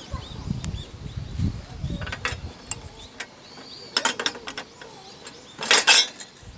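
Small sharp clicks and knocks of something mechanical being handled, with a louder clatter near the end. Birds chirp faintly in the background.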